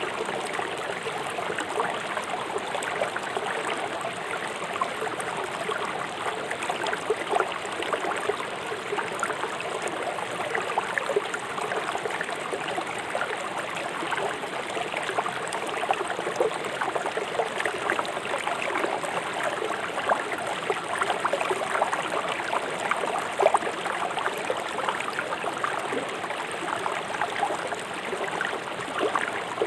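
A fast-flowing river rushing and splashing over stones: a steady, even water noise with many small bubbling splashes.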